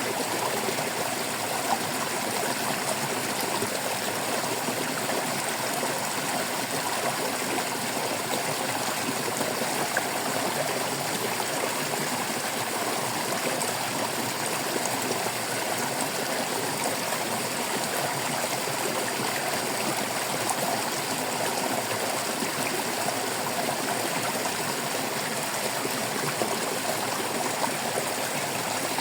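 Stream water babbling and trickling steadily, an even rushing with fine gurgling detail.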